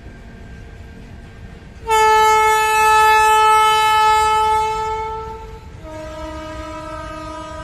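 Electric locomotive's two-tone horn over a low rumble. A long high-pitched blast starts suddenly about two seconds in, then gives way to a quieter, lower second tone held to the end.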